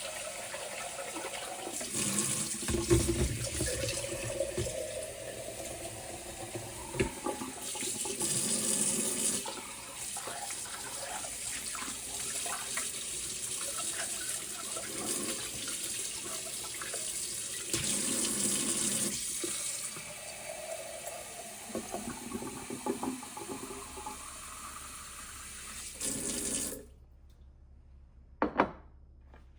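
Water running from a tap into a sink, growing louder in a few surges, with small knocks and clinks against it. The tap is shut off about 27 seconds in, and one brief sharp sound follows near the end.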